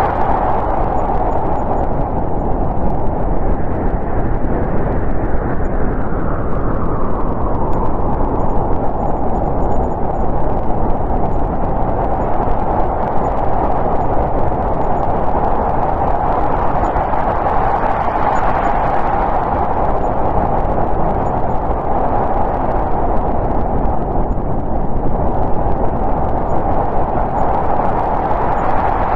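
Snowstorm wind blowing as a steady rushing noise that swells and eases in slow gusts, a rise about every ten seconds.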